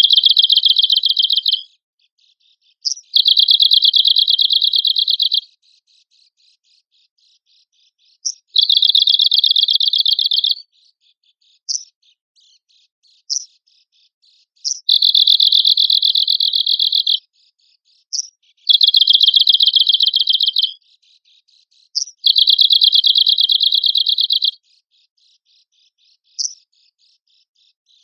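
Arctic warbler singing: a high-pitched, rapid dry trill of about two seconds, repeated six times, with single sharp call notes between the trills.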